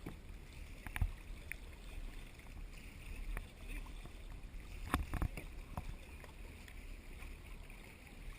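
Kayak on the water: water sloshing around the hull, with a few sharp knocks, one about a second in and a couple around five seconds in, such as a paddle striking the kayak.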